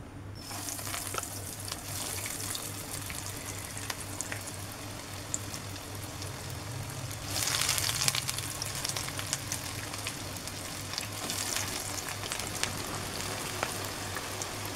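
Breadcrumb-coated jackfruit-seed cutlets shallow-frying in hot oil in a pan, a steady sizzle with many small pops. The sizzle starts as the first cutlet is laid in and grows louder about seven seconds in, as more cutlets fry.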